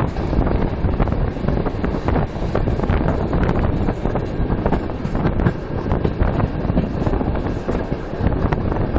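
Wind buffeting the microphone at a window of a moving passenger train, over the steady rumble of the carriage running on the rails, with many short clicks as the wheels pass over rail joints and points.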